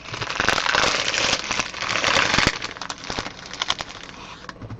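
Crinkly plastic wrapping being handled as trading cards are unpacked, a dense crackle with many small clicks that thins to scattered clicks about three seconds in.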